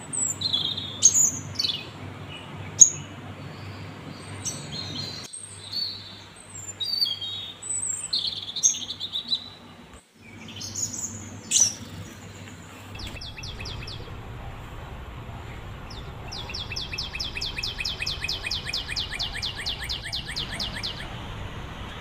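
A little spiderhunter fledgling chirping: short, high-pitched chirps, some sliding down in pitch, scattered through the first half. Later a fast, even run of short high notes repeats for several seconds.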